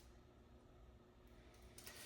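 Near silence: faint room tone, with a soft rustling noise starting near the end.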